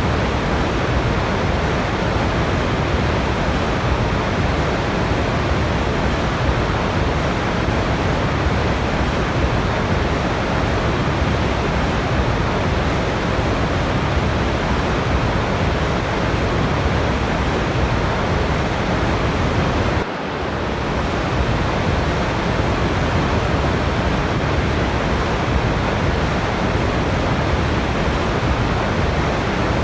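Waterfall rushing as a steady, even roar of falling water, with a sudden short dip in level about twenty seconds in.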